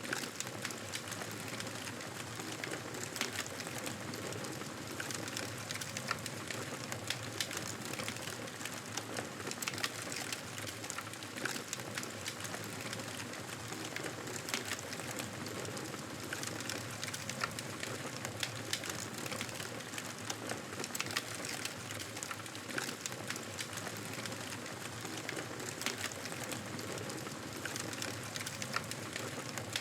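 Wood campfire burning, a steady hiss with frequent small crackles and sharp pops throughout.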